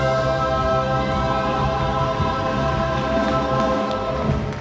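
Stage musical ensemble of many voices singing a long held chord over a live band, with drums hitting underneath.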